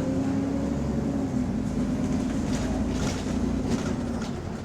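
Bus engine and drivetrain heard from inside the moving bus: a steady drone whose tone slowly sinks, with a few light rattles about halfway through.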